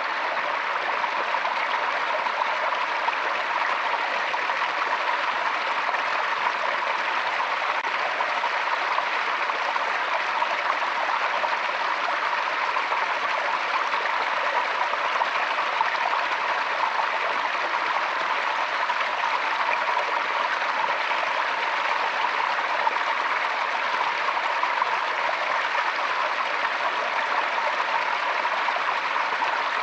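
Forest stream flowing, a steady, unbroken rush of running water.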